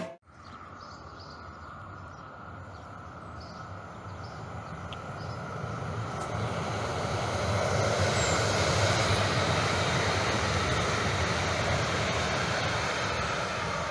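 Train rumbling as it approaches, growing louder over about eight seconds and then holding steady.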